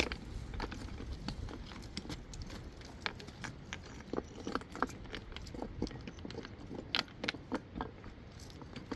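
Irregular small clicks and knocks of hard objects, thickest in the middle of the stretch, over a low rumble.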